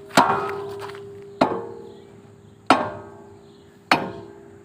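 Hammer striking the steel bucket pin of an excavator: four evenly spaced blows about a second and a quarter apart, each leaving a metallic ring that slowly fades, as the pin is driven through the bushings.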